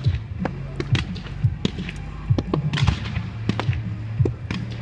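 Fireworks going off: a rapid, irregular string of sharp cracks and bangs, several a second, over a steady low hum.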